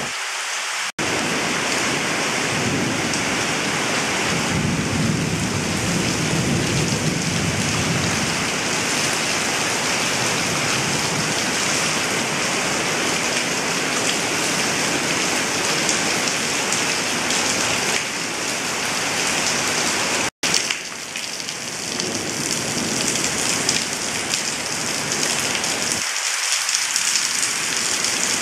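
Heavy rain pouring steadily on trees and leaves, with a low rumble of thunder from about two to eight seconds in. The sound cuts out for an instant about a second in and again about twenty seconds in.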